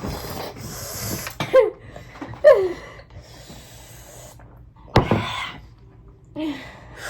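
People hissing and blowing air through their mouths, with short falling yelps, reacting to the burn of very spicy ramen; a sharp sneeze-like burst about five seconds in.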